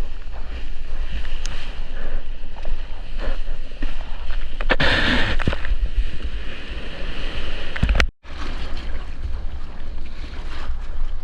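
Sea water sloshing and splashing around a surfer's action camera, with wind buffeting the microphone; a louder rush of water comes about five seconds in, and the sound cuts out for a moment about eight seconds in.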